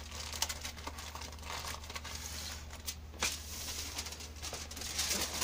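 Aluminum foil being folded and crimped shut around a food packet: irregular crinkling and small crackles.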